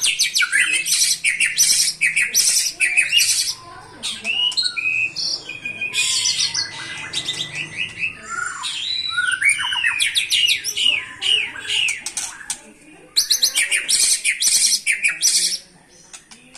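White-rumped shama (murai batu) singing a loud, varied song of rapid high trills, chattering runs and whistled glides, in bursts broken by brief pauses.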